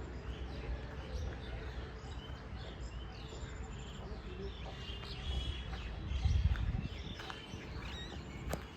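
Outdoor ambience: small birds chirping and twittering over a constant low rumble, which swells briefly about six seconds in.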